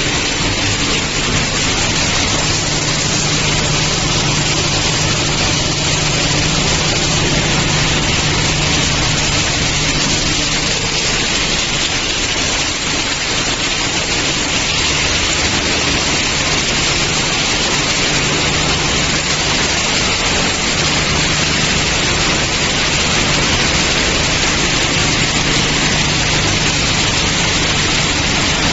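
Refrigerator recycling line machinery running: a loud, steady, hissing noise with a low hum that comes and goes.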